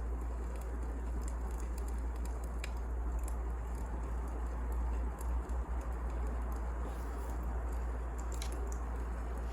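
Wood fire crackling: scattered sharp pops and snaps over a steady hiss and low rumble.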